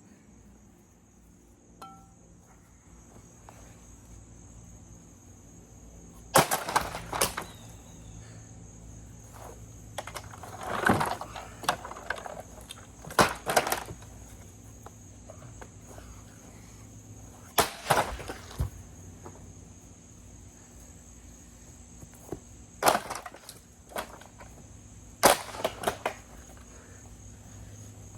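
An axe striking a vacuum cleaner's housing again and again: about ten sharp cracks, often in pairs a half-second apart, with gaps of a few seconds between them.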